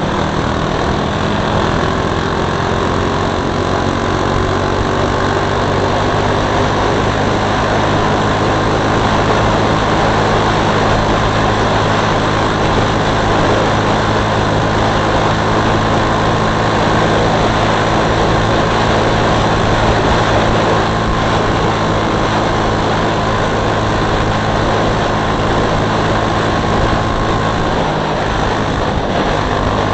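DB30 mini bike engine running hard and steadily at high speed under a dense rush of noise, with its pitch holding nearly level.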